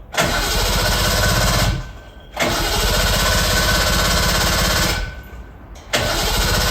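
Suzuki Jimny SJ30's two-stroke three-cylinder engine exhaust through an APIO Matsumoto-type expansion chamber and muffler, run up in three held bursts that drop back briefly between them.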